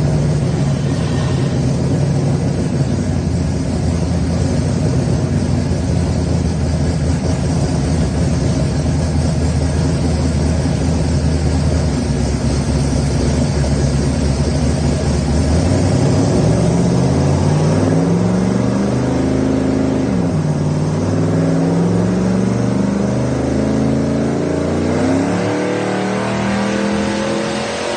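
Car engine running on a chassis dynamometer, holding a steady speed, then revving up from about halfway through. Near two-thirds of the way in the pitch drops sharply, like a gear change, and climbs again under load.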